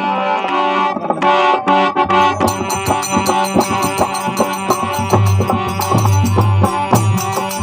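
Instrumental interlude of a Rajasthani devotional bhajan: a sustained reed-like melody over a steady drum rhythm, with manjira cymbals clicking in about two and a half seconds in.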